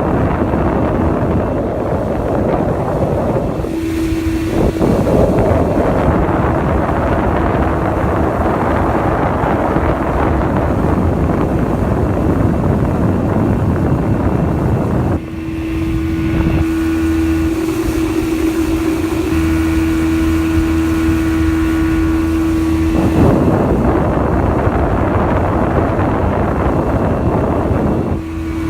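1985 Mercury 50 hp two-stroke outboard running steadily at wide open throttle, with a constant, even engine note. Heavy wind buffeting on the microphone covers the engine for much of the time and drops away through the middle stretch.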